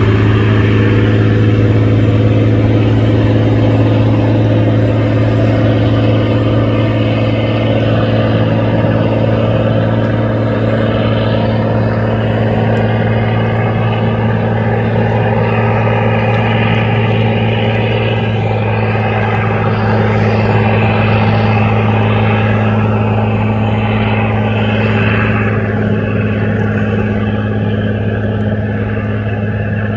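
Engine on a sand-pumping boat running steadily at a constant speed: a loud, even, deep drone.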